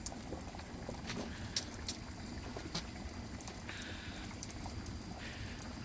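Beef bone broth bubbling steadily in a cast-iron cauldron over a wood fire, with scattered small pops.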